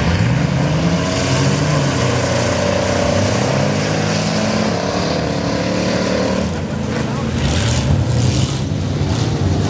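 Engines of several racing trucks running hard on a dirt oval, their pitch rising and falling over and over as the trucks accelerate and pass.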